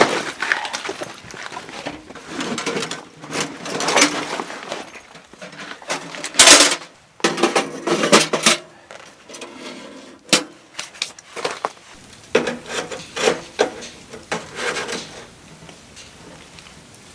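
Irregular knocks, clicks and clatter of objects being handled, with one loud sharp knock about six and a half seconds in.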